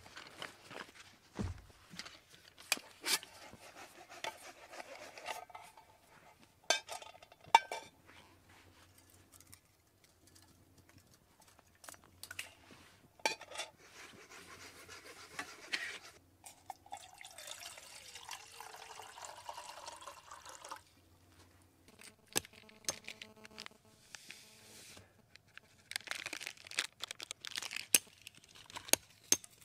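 Metal camp cookware being handled, clinking and knocking, with water poured several times; the longest pour comes a little past halfway.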